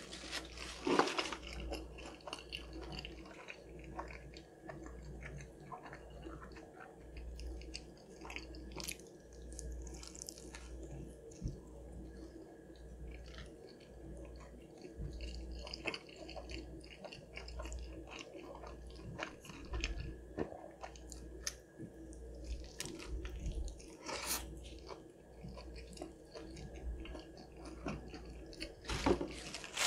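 Close-miked chewing and biting of a Chick-fil-A fried chicken sandwich, with wet mouth sounds and small clicks, and two louder bites about a second in and near the end.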